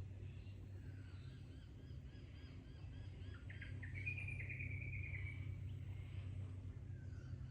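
Birds calling in Australian bush: many short, evenly repeated chirps, with a louder call about halfway through that opens with a few quick notes and then slides slowly down in pitch. A steady low rumble runs underneath.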